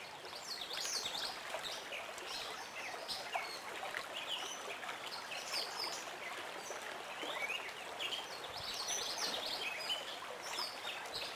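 Stream water running steadily, with many birds chirping and calling in short notes throughout.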